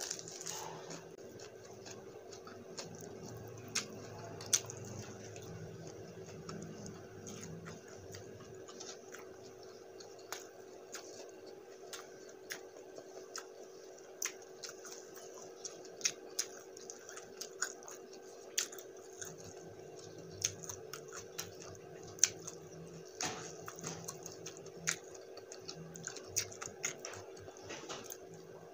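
Close-miked eating of spicy buffalo wings and fresh vegetables: chewing, with sharp mouth clicks and small crunches scattered irregularly throughout, over a steady low hum.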